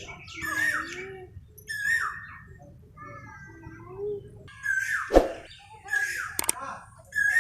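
A bird calling repeatedly: several short calls, each falling in pitch. There is a sharp click about five seconds in.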